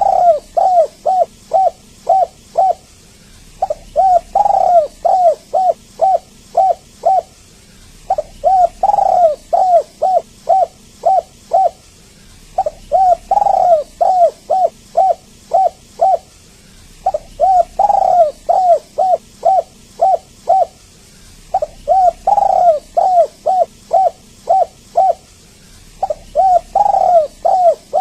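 Spotted dove (tekukur) cooing: phrases of short, low, hooting notes, each opening with a longer, louder note and followed by a quick run of shorter ones. The phrases repeat at an even pace, about every four and a half seconds, with brief pauses between them.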